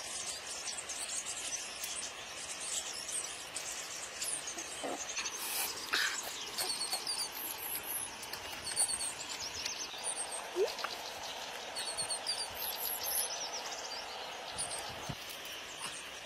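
Small birds chirping in short repeated high phrases over a steady outdoor hiss, with a few brief sharp ticks about six, nine and eleven seconds in.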